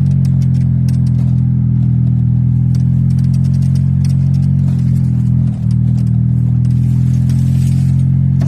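Speed-modified golf cart driving along a trail, its drive giving a steady low hum, with light rattling clicks in the first few seconds and a brief dip in pitch and level about five and a half seconds in.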